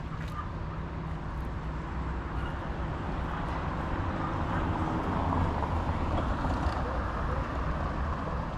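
Road traffic noise with a steady rush of passing vehicles, swelling louder about halfway through as a vehicle goes by.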